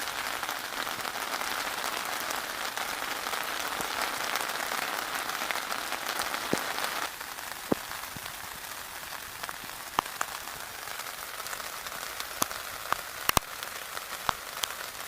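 Rain drops falling on a canvas tarpaulin tent. A steady hiss drops away suddenly about seven seconds in, leaving a quieter hiss with single louder drops striking now and then.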